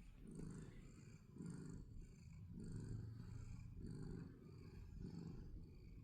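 Domestic cat purring while being brushed, a faint rough purr that swells and fades with each breath, about five times.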